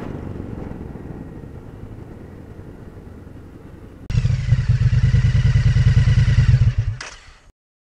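Riding noise from a Honda PCX 160 scooter, engine and road, fading away. About four seconds in, a loud motorcycle engine sound effect starts suddenly and runs for about three seconds before stopping abruptly.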